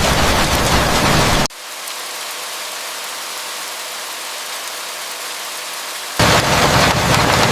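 Steady heavy rain. About a second and a half in it cuts suddenly to a thinner, quieter patter with no low rumble, and near the end it jumps back to the full, heavy downpour.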